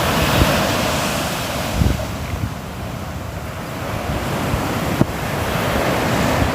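Sea waves washing on the shore: the surf eases off around the middle and swells again as the next wave comes in. Wind rumbles on the microphone underneath.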